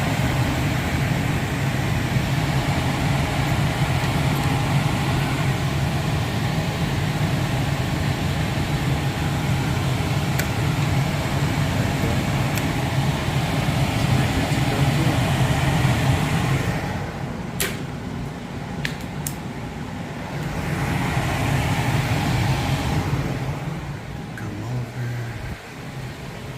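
Electric air handler's blower fan running with the heat elements on: a steady rush of air over a low hum. It drops quieter for a few seconds about two-thirds of the way through, and again near the end.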